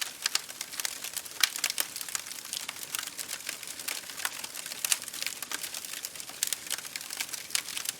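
Fire crackling: a dense, irregular run of sharp pops and snaps over a soft hiss.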